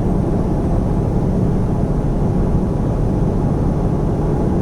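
Steady engine and road noise inside a semi-truck's cab while driving, a constant low rumble.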